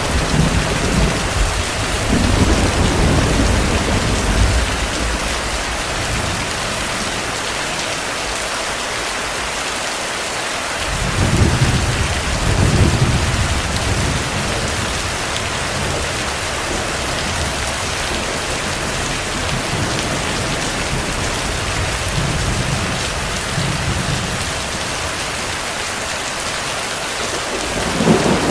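Steady heavy rain with thunder: low rolling rumbles in the first few seconds and again about halfway through, and a sharper thunderclap near the end.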